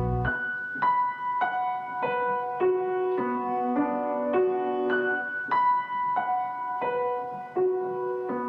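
Background piano music: a slow melody of single notes struck about every half second, each left to ring. A low bass layer drops out just after the start.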